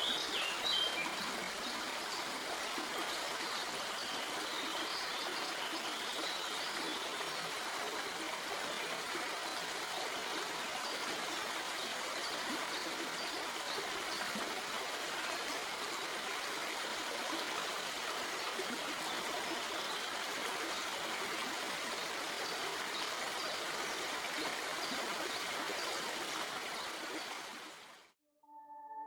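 Stream water flowing over rocks, a steady rushing babble, with a few bird chirps in the first second. The water fades out near the end.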